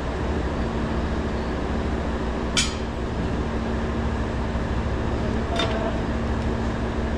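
Steady low machine hum and rumble, with a sharp click about two and a half seconds in and a fainter click about three seconds later.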